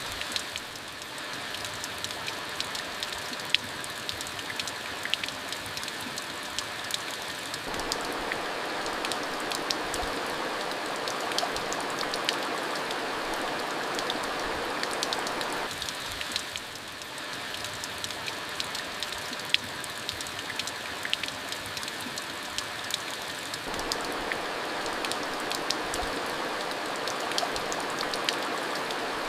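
Steady rain falling: a dense, even hiss with many scattered sharp ticks of individual drops striking a surface.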